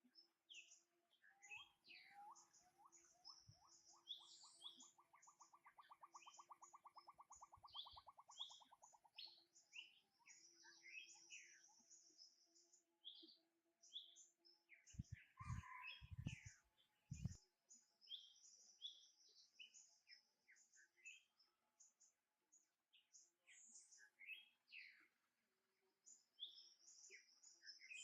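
Faint birdsong: many short high chirps throughout, with a long trill of quick repeated notes that speed up over several seconds early on. A few low thumps come about halfway through.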